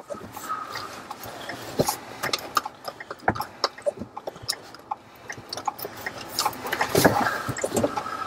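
Scattered raindrops tapping irregularly close to the microphone, many sharp ticks over a steady hiss of wind and rain. A car passes on the wet gravel road.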